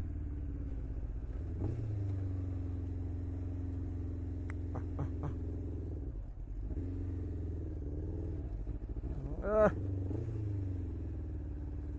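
Motorcycle engine running at low revs in stop-and-go traffic: a steady low hum that briefly rises about two seconds in, dips about six seconds in and then climbs again as the bike creeps forward.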